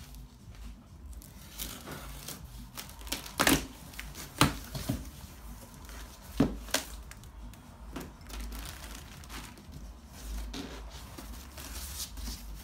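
Packaging being handled and opened: crinkling and rustling with tearing sounds, broken by a few sharp knocks, the loudest about three and a half, four and a half and six and a half seconds in.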